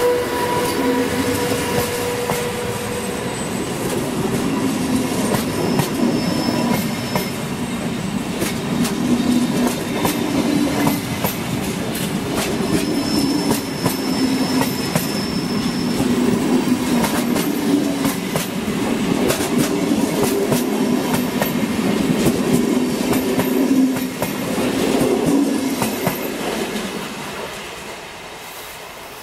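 Passenger train running past along the platform: a steady rumble of wheels on rail with a wavering low drone and repeated clicks as the wheels cross rail joints. The sound falls away near the end as the last carriage goes by.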